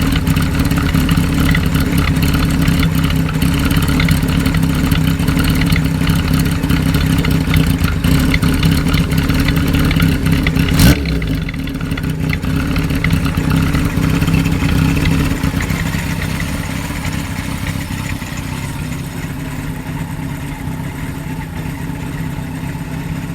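Motorcycle engine running through a BEET-type steel-pipe muffler fitted with a baffle. A single sharp crack comes about eleven seconds in, after which the engine runs more quietly and gradually fades.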